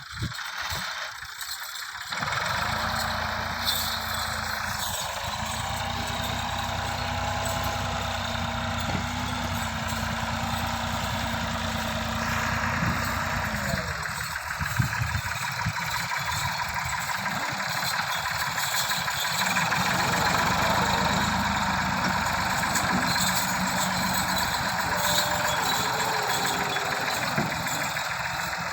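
Diesel tractor engine running steadily, coming in about two seconds in; its note shifts around halfway through.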